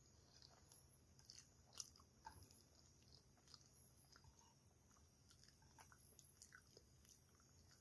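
Faint chewing of pasta with scattered light clicks of chopsticks against food and a plate. The loudest click comes a little under two seconds in.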